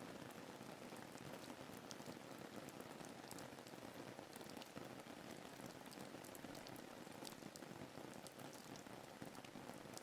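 Faint, steady rain falling, an even hiss with scattered light drop ticks.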